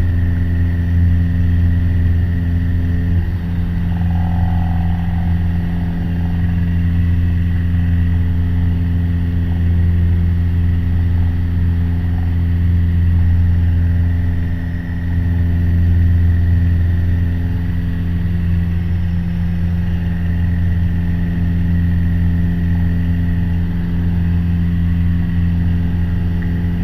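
Piper PA-28 Warrior's four-cylinder Lycoming engine and propeller running steadily at full climb power after takeoff, a constant low drone heard inside the cockpit.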